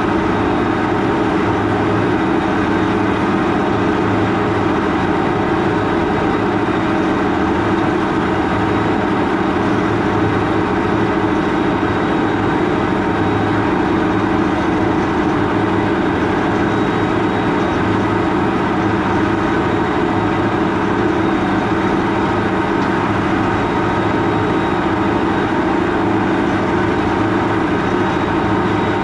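A large farm tractor's diesel engine running steadily under load, a constant low drone with no change in pace.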